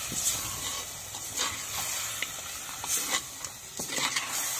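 Crab masala sizzling in a terracotta clay pot, a steady frying hiss, while a steel spoon stirs it with intermittent scrapes and knocks against the pot.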